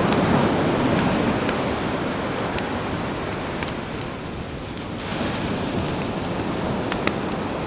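Sea waves washing in over a campfire crackling with sharp pops. One wave swells at the start and ebbs away about four seconds in, then the surf builds again.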